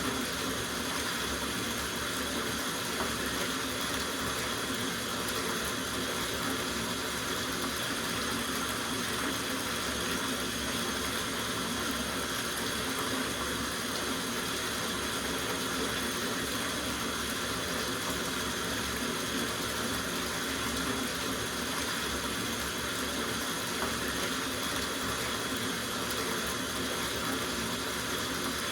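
Tap water running steadily into a filling soaking tub, an even rushing splash with no breaks.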